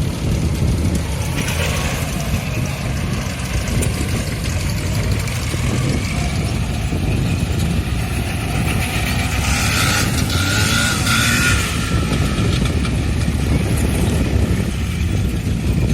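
Tractor engines running steadily at low speed, with a louder, higher-pitched stretch of sound about ten seconds in.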